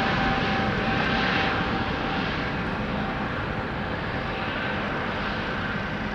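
Aircraft engines fading as a plane moves away after passing. A steady whine fades out about four seconds in, leaving a dull rumble.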